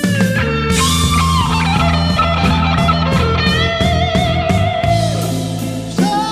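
Overdriven electric guitar lead playing a slow blues-rock solo over bass and drums, with long sustained notes, string bends and a held note with wide vibrato in the middle. The tone is a Marshall-style lead sound built on a Quad Cortex with delay and spring reverb.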